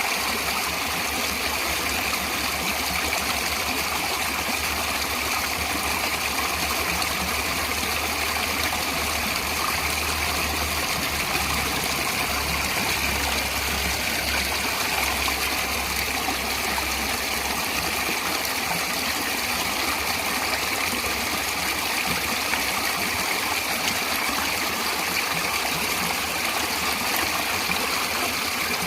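Steady rush of running water, as from a flowing stream, even in level throughout, with a faint low hum beneath it that fades out about two thirds of the way through.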